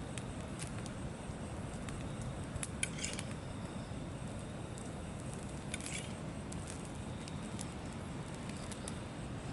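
Light metallic clicks and clinks of camp cooking gear being handled, with two short clattering bursts about three and six seconds in, over a steady low rumble.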